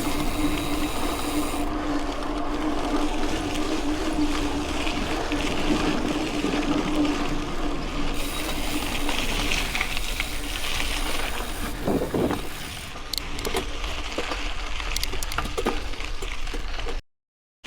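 Mountain bike rolling along a dirt road: tyre noise over the gravel and wind rush, with a steady buzzing hum. Sharp rattles and clicks from the bike come in during the second half. The sound cuts out briefly near the end.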